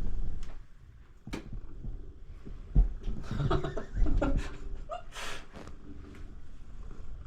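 Siamese cat purring loudly, the purr dropping away for a moment about a second in, with a couple of knocks and a louder spell of animal sound near the middle.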